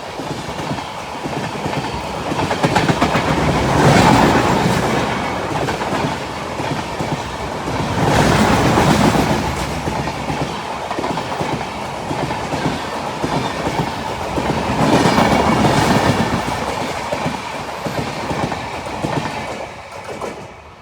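An Indian Railways express train running past at speed. Its wheels clatter over the rail joints, and the noise swells and eases several times, then drops away near the end as the train clears.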